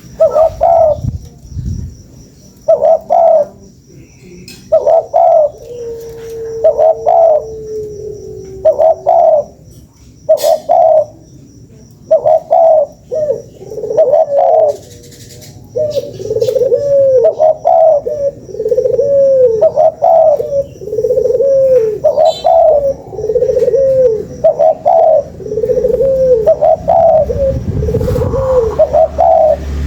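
Spotted dove cooing over and over, a lure call (pancingan) used to draw out other doves. It is short notes about once a second, and from about halfway on each phrase ends in a lower, arched note.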